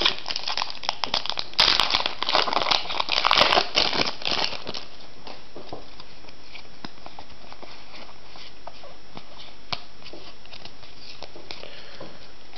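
Foil wrapper of a Pokémon trading card booster pack crinkling and tearing open for about the first four and a half seconds, then a few faint clicks as the cards are handled.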